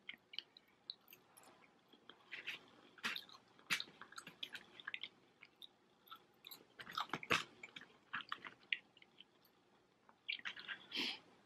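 Close-miked chewing of Chinese takeaway food, mostly wet smacks and small crunches in an irregular run of short clicks, with a louder cluster a little after the middle and again near the end.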